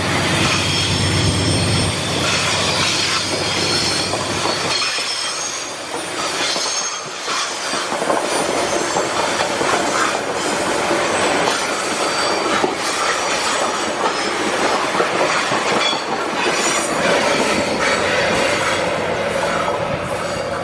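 A heavy train rolling past. Its steel wheels squeal against the rails with high ringing tones and clack over the rail joints. A diesel locomotive's low engine hum fades after the first few seconds and returns near the end.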